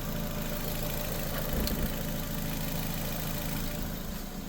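2006 Nissan Sentra's 1.8 L four-cylinder engine idling steadily while its cooling system is being burped after a water pump replacement, with a light tapping starting to come from it.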